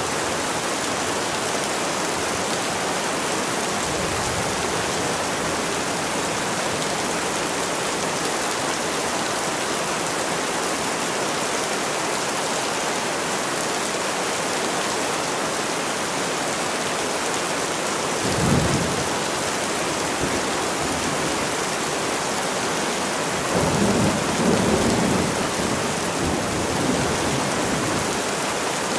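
Steady rain falling with an even hiss, with low rolls of thunder: a short one about two-thirds of the way through and a longer, louder one near the end.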